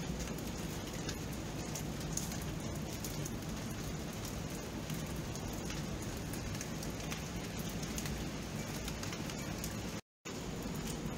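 Steady rain: an even hiss with scattered drops ticking against a surface. About ten seconds in, the sound cuts out completely for a split second, then resumes.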